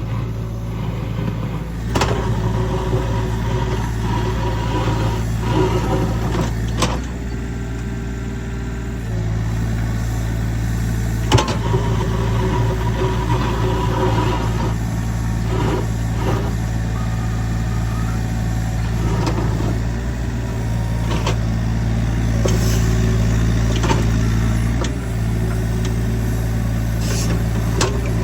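Heavy equipment engine running steadily, its pitch and load shifting a few times as it works, with several sharp metallic clanks along the way.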